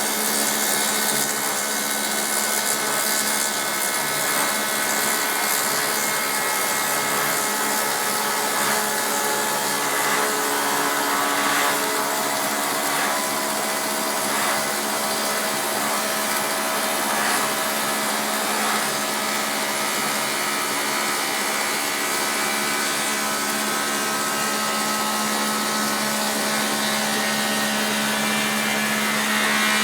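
Taiga OS electric log-rounding machine running steadily as it mills a log: a continuous machine whine with several held tones over the noise of wood being cut.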